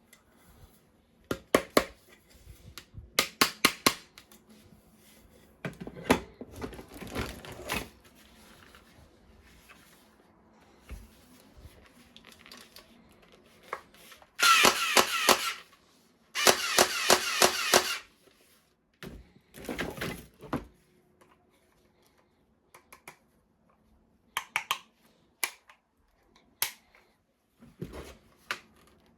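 Plastic toy guns being handled and worked: sharp clicks and rapid clattering of plastic parts, with two loud harsh bursts of about a second and a half each in the middle, then a shorter one and a few more scattered clicks.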